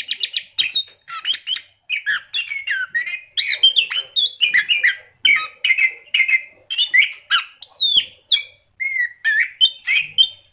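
Orange-headed thrush (anis kembang) in full song: a fast, unbroken run of short, varied whistled and warbled phrases separated by brief gaps.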